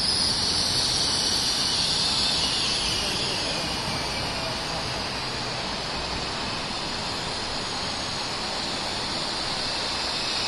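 CR400BF Fuxing high-speed electric multiple unit rolling slowly along the platform and coming to a stand: a steady rushing hiss, a little louder for the first few seconds, then easing.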